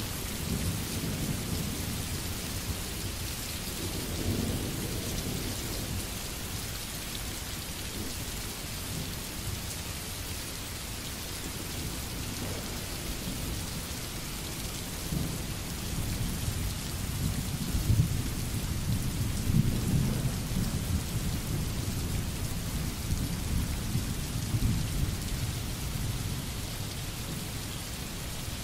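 Steady rain falling and splashing on wet pavement, with low rolling thunder rumbling about four seconds in and again through the second half, loudest a little past the middle.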